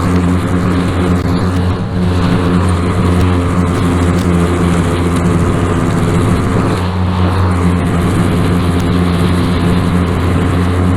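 Small gasoline engine of lawn equipment running steadily at a constant speed.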